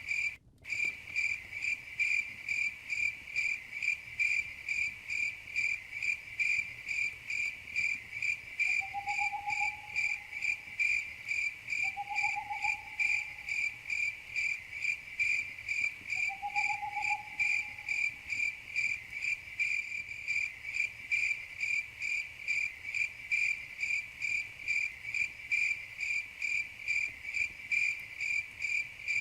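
Crickets chirping in a steady, even pulsing rhythm, with the sound cutting out for a split second just after the start. Three brief, faint, lower rising calls come in the middle.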